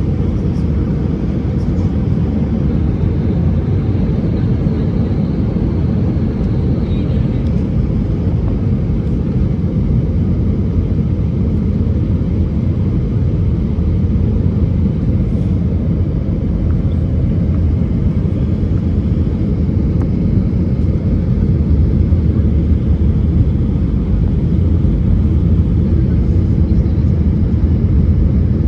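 Airbus A320-214 cabin noise: the steady low roar of its CFM56 engines and airflow heard from a passenger seat, growing slightly louder near the end.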